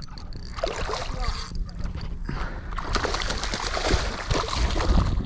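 Water splashing and sloshing beside a kayak as a hooked jack thrashes at the surface, growing louder over the second half.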